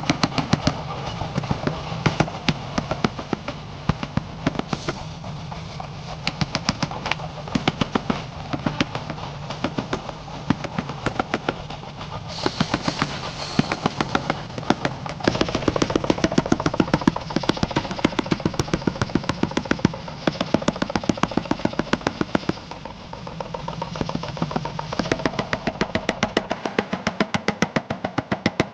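Hammer blows on hot steel in long runs of rapid, evenly spaced strikes, several a second, over a steady low hum: a steel ball bearing being forged out into a blade.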